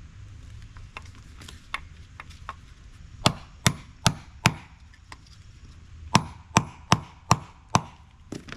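Sharp blows of a hand tool on a small appliance motor being broken apart to get at its copper. A few light taps come first, then two runs of four or five heavy strikes at about two and a half a second.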